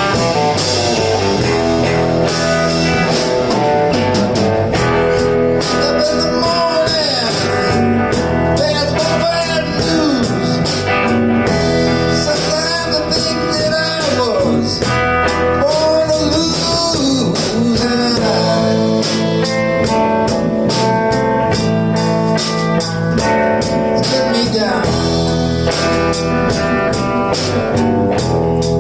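Live blues band playing an instrumental break: an electric guitar solo with bent notes over bass, drums and cymbals.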